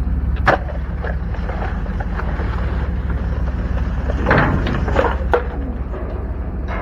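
Steady low rumble, like a vehicle on the move, with a few sharp knocks or clicks: one about half a second in and several between about four and five and a half seconds in.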